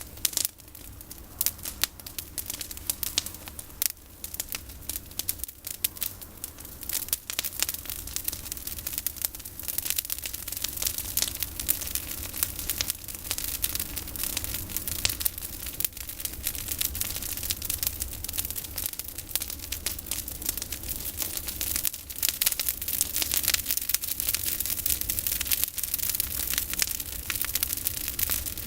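Campfire of pruned olive branches burning, with dense, irregular crackling and popping that grows busier about ten seconds in.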